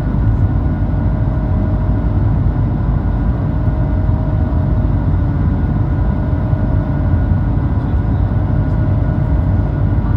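Jet airliner engines running steadily: a loud, even low rumble with a few steady whining tones over it.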